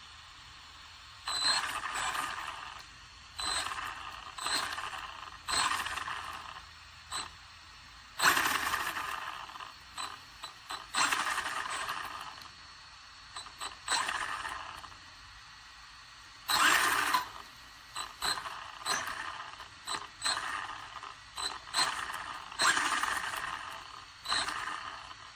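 Hyper Go H14BM 1/14 brushless RC truck driven in a string of short bursts, its tyres scraping over the ground and its parts rattling. There are about a dozen bursts, each starting suddenly and fading within a second or two.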